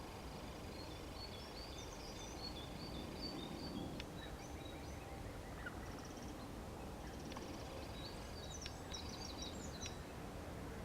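Small birds chirping and twittering in high, quick notes. One spell comes over the first few seconds and another in the second half, over a steady low background rumble.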